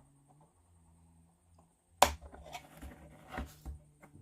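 Plywood kit parts being handled: one sharp click about halfway through, followed by several lighter knocks and taps of wood.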